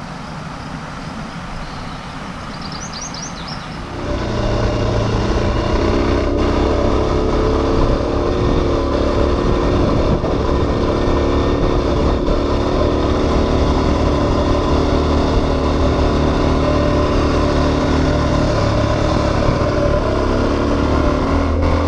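Suzuki DRZ400's single-cylinder four-stroke engine running while the bike is ridden. It gets noticeably louder about four seconds in as the throttle opens, then holds a steady pitch under way.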